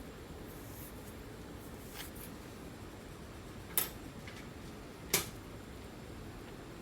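Short, sharp scratches on a flaky scalp as dry flakes are scraped loose: a faint one about two seconds in, then two clear ones about a second and a half apart, over a steady low room hiss.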